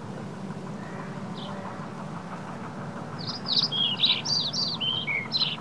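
A songbird singing a quick run of short, high, downward-slurred notes over about two seconds, starting a little past halfway. A steady low hum runs underneath.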